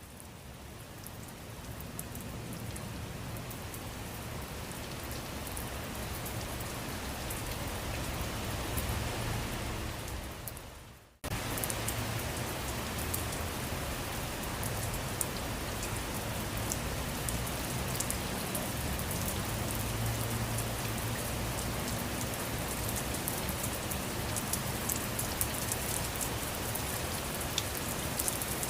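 Steady rain falling, with the small ticks of single drops hitting a surface. It swells in at the start and fades away about ten seconds in. After a brief break it comes back suddenly at full level and runs on evenly.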